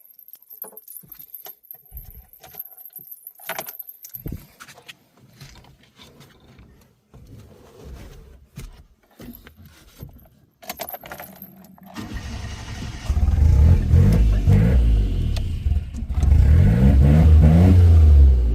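Keys jangling with small clicks and knocks, then about twelve seconds in the Suzuki Jimny's engine starts and runs, revving up and down twice.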